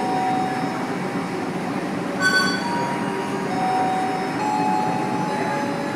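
Train moving through the station: a steady rumble of wheels on rail, with thin wheel squeals coming and going. A short metallic ring sounds about two seconds in.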